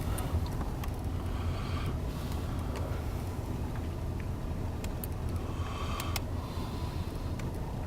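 Steady low rumble of a car driving slowly, heard from inside the cabin, with a few faint clicks and rattles.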